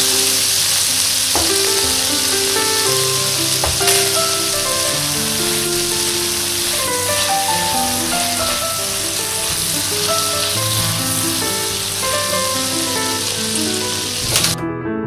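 Chicken and fried tofu sizzling in a pan of balado chili sauce as it cooks down and is stirred with a wooden spatula, over background music. The sizzling cuts off suddenly near the end, leaving only the music.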